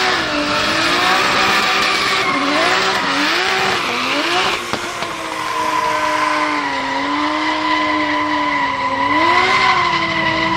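Drift car engine revving up and down repeatedly as the car slides, with tyres screeching, the tyre noise heaviest in the first half; the engine settles to a steadier, lower note for a few seconds before rising again near the end.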